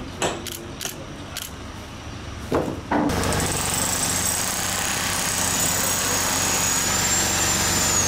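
A few knocks, then about three seconds in a power tool starts up and runs steadily with a high whine.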